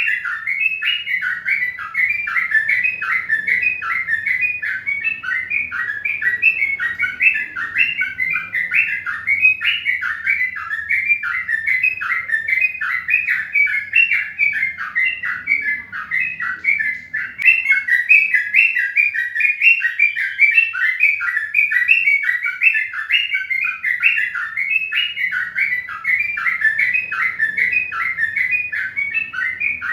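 Bird chirping without pause, short repeated chirps several a second, all at much the same pitch.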